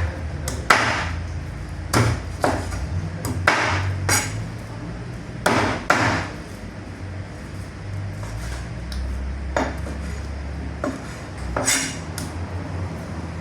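A butcher's cleaver chopping chicken on a chopping block: about a dozen sharp, irregularly spaced strikes over a steady low hum.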